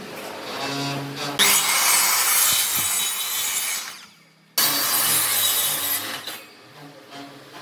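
A power tool cutting or grinding wood: a steady hum, then a loud hissing grind about a second in that stops abruptly about four seconds in and starts again half a second later before dying down.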